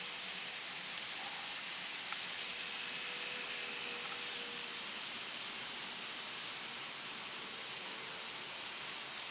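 Steady hiss with a faint, slightly wavering whine from an N-scale model train's small electric motor running on the layout, and one light click about two seconds in.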